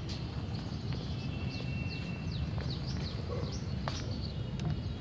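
Small birds chirping, many quick downward-sliding chirps and one longer held whistle, over a steady low rumble, with a couple of sharp clicks.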